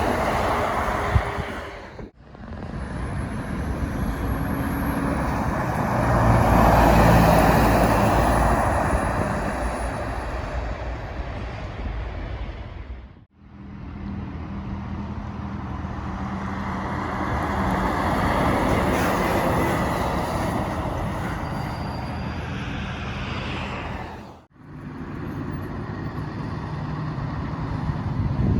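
Heavy trucks driving past on a road: engine and tyre noise swells as each one approaches and fades as it goes. It comes in separate takes broken by three sudden drops to silence at the cuts.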